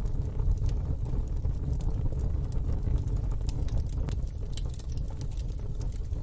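Wood fire in a fire pit crackling: scattered sharp pops and snaps, several a second, over a steady low rumble.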